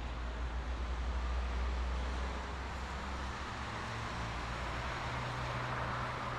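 Road traffic: a steady hiss of tyres from passing vehicles, under a low engine drone that shifts higher about halfway through.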